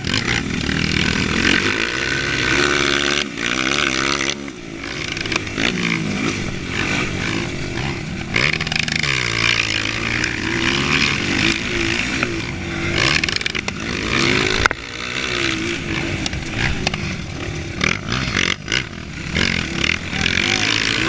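Dirt bike engine revving up and down over and over as it is ridden, its pitch climbing and dropping every second or two, over a steady rushing noise.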